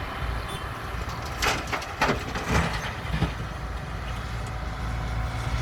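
Caterpillar 312B excavator at work: its diesel engine runs steadily, with a handful of sharp scrapes and knocks between about one and a half and three seconds in.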